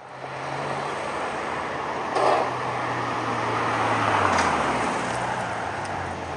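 A car engine running with steady traffic and road noise; its hum drops in pitch about four seconds in, and there is a brief louder burst just after two seconds.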